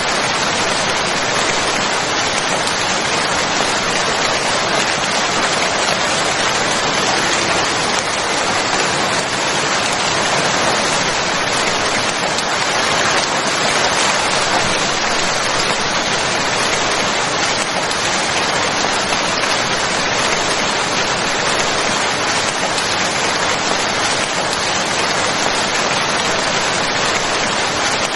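Steady rain falling, a dense even hiss of many drops that holds at one level throughout.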